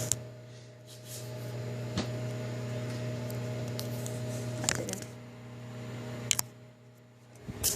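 Microwave oven running, a steady electrical hum with a few faint clicks and knocks over it.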